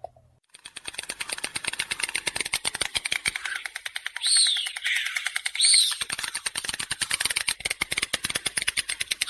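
White stork clattering its bill: a rapid, even rattle of the mandibles knocking together. It starts about half a second in and keeps going. Two short, high calls that fall in pitch cut through it, about four and five and a half seconds in.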